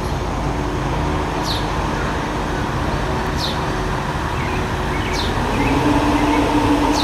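A car engine idling steadily, growing a little louder over the last second or so. Over it, a short high chirp falls in pitch and repeats about every two seconds.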